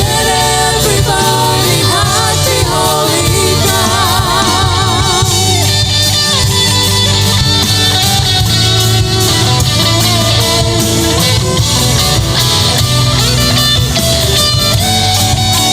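Worship band music: a singer holding notes with vibrato over guitar and bass for the first five seconds or so, then the band playing on without vocals.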